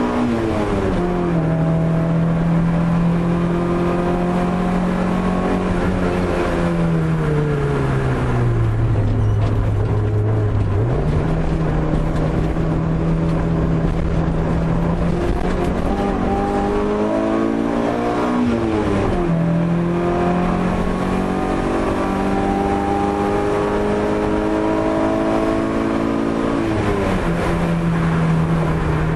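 Opel Corsa A GSi's four-cylinder engine driven hard on a wet track. It climbs steadily in pitch, then falls off sharply on lifts and gear changes, several times over. A steady hiss of tyre and road noise runs underneath.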